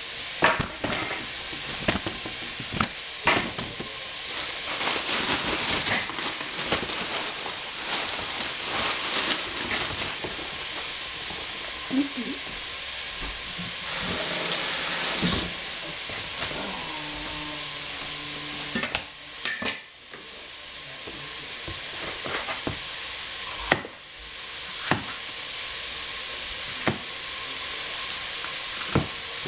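Sliced onion sizzling steadily as it fries in a hot pan, with occasional sharp knocks of a large knife on a plastic cutting board as a red capsicum is cut.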